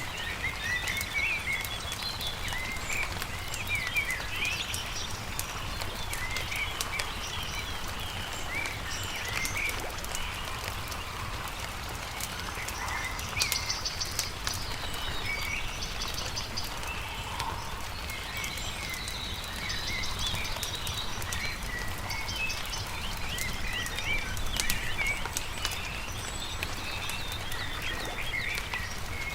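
Small songbirds chirping and singing over a crackling campfire, with scattered sharp pops from the fire and a steady low rumble underneath.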